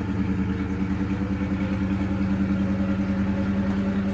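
Car engine running steadily at low speed, a steady hum with a fast, even throb, heard from inside the car through the open window.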